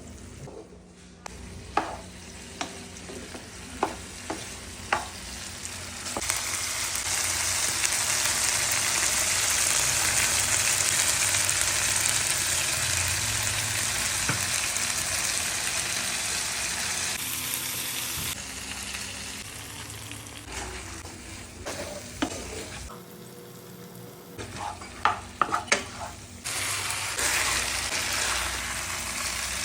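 Chicken frying in a pan, sizzling, with a utensil tapping and scraping against the pan. A few sharp taps come first; the sizzle grows loud about six seconds in, eases off past the middle, and swells again near the end after a few more taps.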